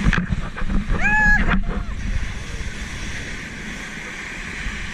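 Wind buffeting the microphone over a steady wash of sea noise, with a short voiced sound from a person about a second in.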